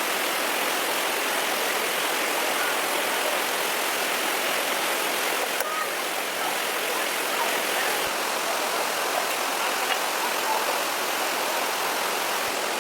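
Steady rushing of running water, an even hiss that keeps the same level throughout.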